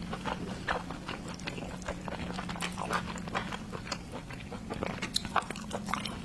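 Close-up mouth sounds of a person eating seafood: irregular wet chewing, lip smacks and small clicks, with no words.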